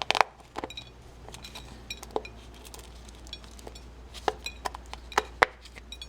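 Irregular clinks and clicks of a metal tablespoon against a dish as sticky birdseed is scooped and packed into a plastic egg mould, some strikes ringing briefly.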